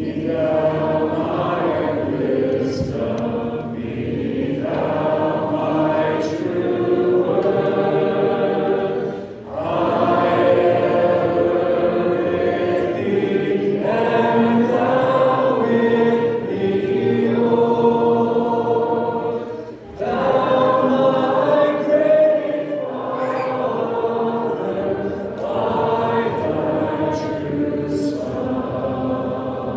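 Church congregation singing a hymn a cappella, many voices together, with short breaks between phrases about every ten seconds.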